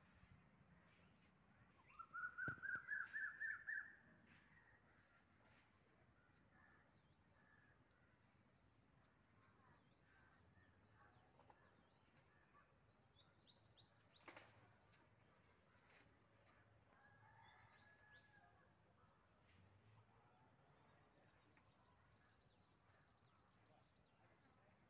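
A bird calls a quick series of about ten notes that climb in pitch over two seconds, a couple of seconds in. Faint high chirps follow over a very quiet background.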